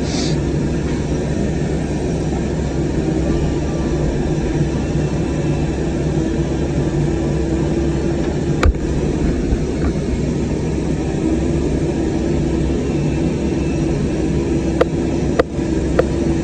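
CAT 305 mini excavator's diesel engine running steadily under work, with a sharp knock about halfway through and three more knocks near the end.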